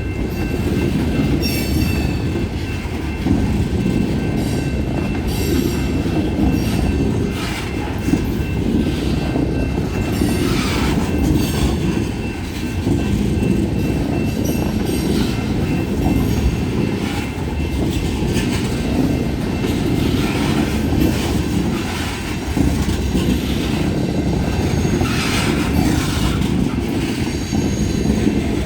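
Freight train cars rolling past on the rails: a steady low rumble with repeated clacking of wheels over rail joints and a faint, thin wheel squeal.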